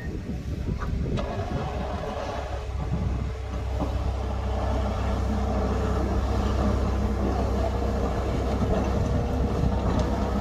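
Tractor engine running steadily under load while clearing snow, a continuous low drone with a faint steady whine over it and a small knock about a second in.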